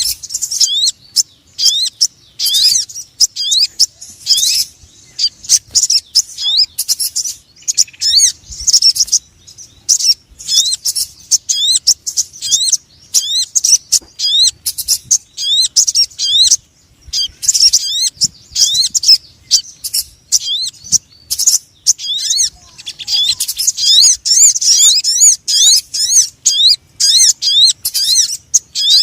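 Bird-lure recording of sogon calls: rapid bursts of high, thin, arched chirps repeated over and over with short gaps between the bursts.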